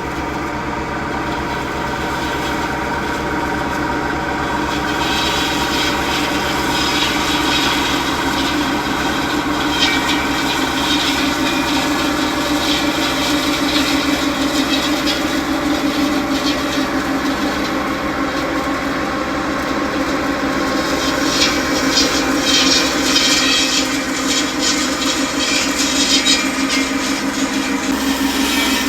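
John Deere 6140R tractor's six-cylinder diesel running steadily under load, driving a tractor-mounted hedge and tree trimmer. Bouts of harsher crackling from the cutter working through brush come in a few seconds in, and again during most of the last third.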